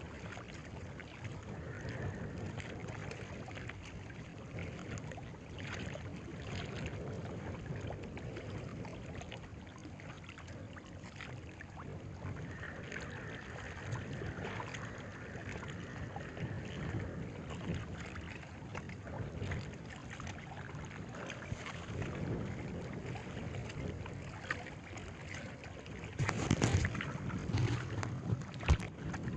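Steady waterside noise of wind and water, with louder knocks and rustling near the end.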